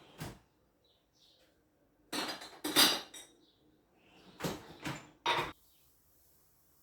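Kitchen dishes and utensils knocking and clinking as they are handled, in a series of short, sharp strikes, the loudest about three seconds in.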